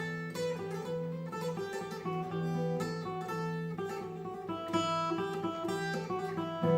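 Instrumental music: an acoustic plucked string instrument picks a melody of single notes over a low held bass note, as the introduction to a Turkish folk song.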